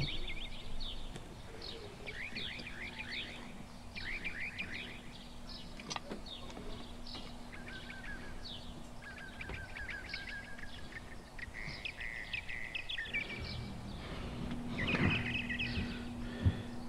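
Small birds chirping and singing in short repeated trills, over a faint steady hum. A light knock sounds about six seconds in and another near the end.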